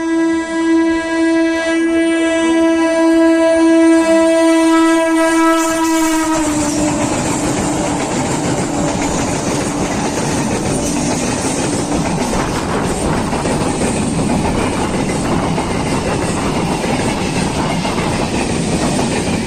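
Electric multiple unit (EMU) train sounding a long, steady horn as it approaches. The horn drops in pitch about six seconds in as the train passes and fades away, while the rush and wheel clatter of the passing train continue to the end.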